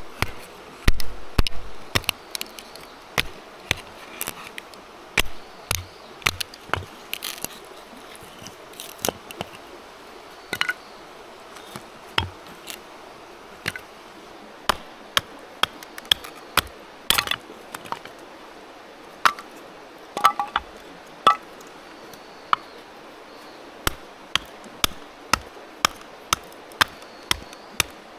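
Wood being chopped at camp: irregular sharp knocks, about one to two a second, over a faint steady background hiss.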